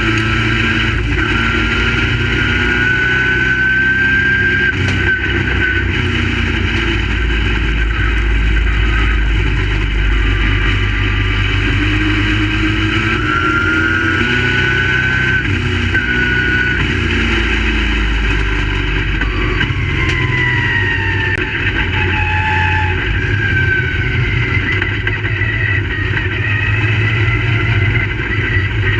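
Several Crate Late Model race cars' V8 engines running together on the track, each revving up and easing off so the pitches rise and fall and overlap.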